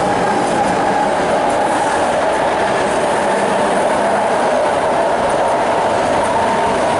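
BART rapid-transit train passing on the elevated track overhead: a steady, loud run of wheel and rail noise with a steady tone in it, holding level throughout.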